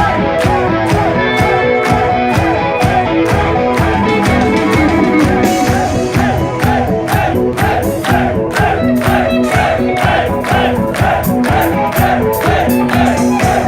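Rock band playing live at full volume, with guitar and drums; the drums and cymbals hit harder and more steadily about six seconds in.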